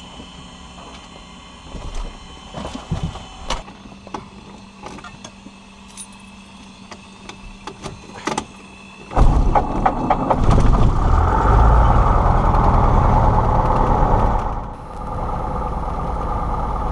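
A few clicks and knocks, then about nine seconds in a Cessna 172's piston engine starts and runs loud and steady, settling to a lower, even idle near the end.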